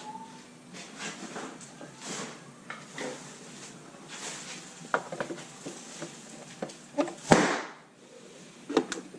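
Scattered clicks, taps and rustling as parts and tools are handled, with one short, loud whoosh about seven seconds in.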